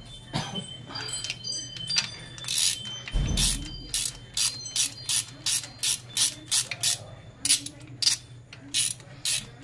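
Socket ratchet wrench clicking in a run of short sharp clicks, about two or three a second, as a spark plug is tightened by hand.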